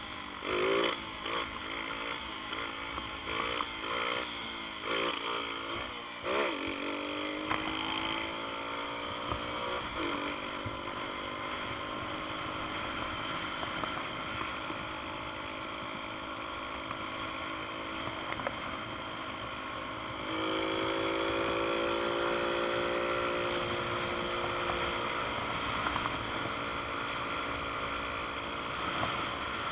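Xpro Storm DLX 150cc pit bike's single-cylinder four-stroke engine under way: a rapid run of short throttle blips for the first several seconds, then revving up with a drop in pitch at a gear change about ten seconds in. It settles into steady running and gets louder as the throttle is opened about two-thirds of the way through.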